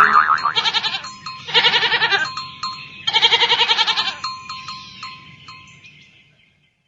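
Goat bleating: a call that carries on from just before, then two quavering bleats about a second long each, after which the sound trails off.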